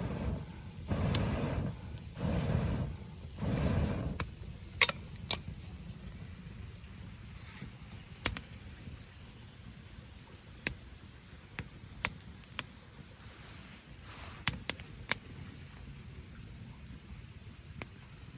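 Wood fire crackling in a camping fire pit, with sharp pops at irregular intervals over a low steady hiss. The first few seconds carry several louder rustling noises.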